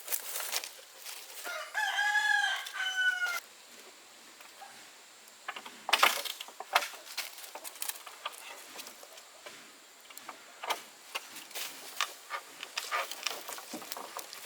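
A rooster crows once, a call of about two seconds that rises and then tails off, starting about a second and a half in. Scattered sharp knocks and clicks come throughout, loudest around the middle.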